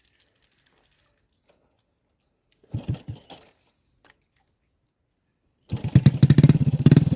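A small engine starts up near the end and runs with a rapid, even chugging; before it come a few brief knocks and rustles out of near silence.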